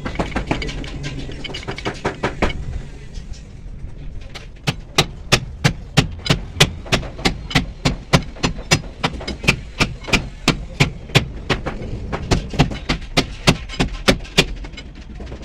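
Metal hammering: a hammer striking metal in a steady rhythm of about three blows a second, starting a few seconds in and stopping near the end.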